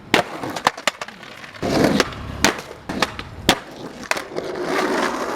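Skateboard in use: a string of sharp board clacks and impacts, with wheels rolling between them, as the skater makes repeated ollie attempts.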